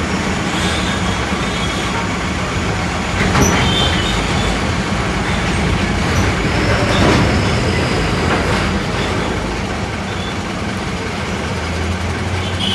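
Steady road and engine noise of a car moving slowly in heavy traffic, with a few brief high squeals.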